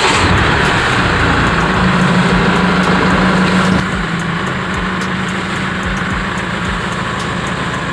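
Mahindra XUV500 engine idling steadily, a continuous low hum that gets somewhat quieter about four seconds in.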